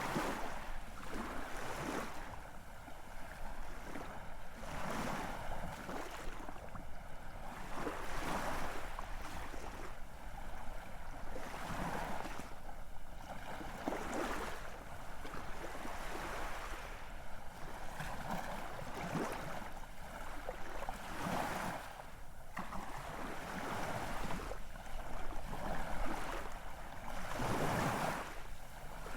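Ocean waves breaking and washing in, in irregular surges every second or two.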